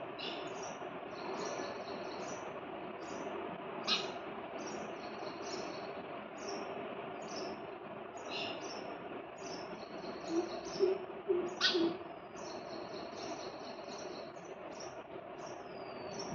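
Sparrows chirping over and over, short high chirps coming about twice a second. Two sharper, louder clicks stand out, one about four seconds in and one just before the twelfth second.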